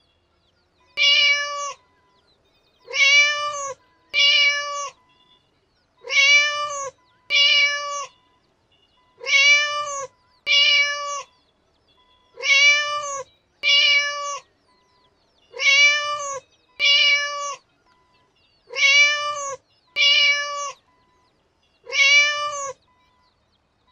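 Cat meowing: the same meow repeated fourteen times at an even pace, mostly in pairs about every three seconds, each call short and rising then falling slightly in pitch.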